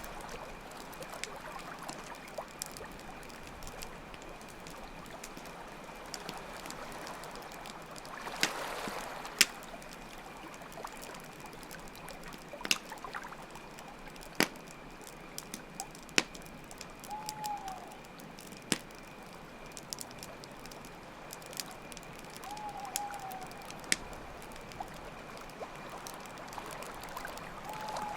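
Campfire crackling, with irregular sharp pops, over a steady chirring of crickets and a constant trickle of water. Three brief soft tones sound in the second half.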